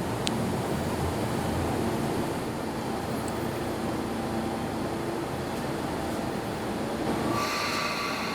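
A train running on its rails with a steady rumble and a low motor hum. A higher tone joins near the end.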